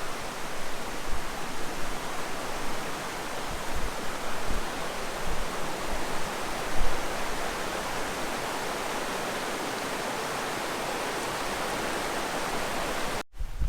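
Waterfall rushing: a steady, dense roar of falling water, with a few low thumps in the first half. It cuts off abruptly just before the end.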